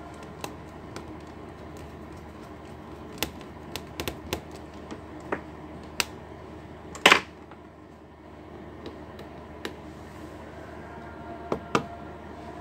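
Scattered small clicks and taps of laptop parts and tools being handled during a hinge repair, with one louder scraping burst about seven seconds in and two sharper clicks near the end.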